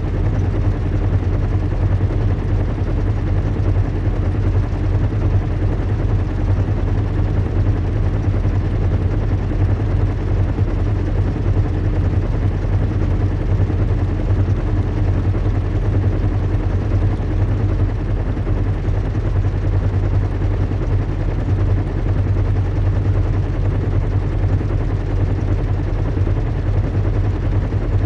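Steady low engine drone of a zeppelin airship in flight, a recreated cabin-style ambience with a deep rumble under a wider hiss. A faint higher hum fades out about two-thirds of the way through.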